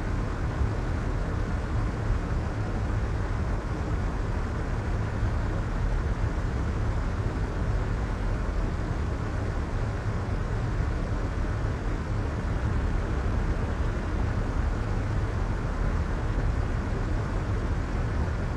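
Steady, unchanging soft white noise, deep and muffled, with most of its energy low and little hiss at the top.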